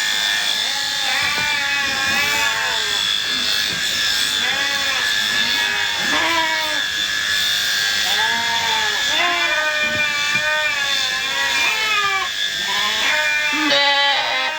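Electric sheep-shearing clippers running with a steady high whine, while sheep bleat repeatedly, many short rising-and-falling calls overlapping.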